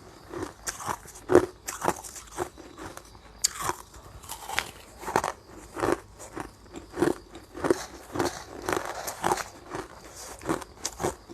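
Ice being bitten and chewed, a steady run of sharp crunches about two a second.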